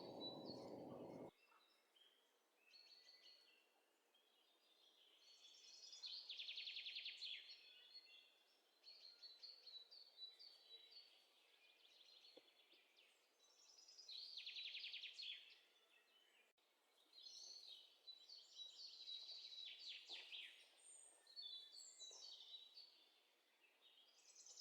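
Faint birdsong: several short bouts of high chirps and quick trills, with gaps of near silence between them.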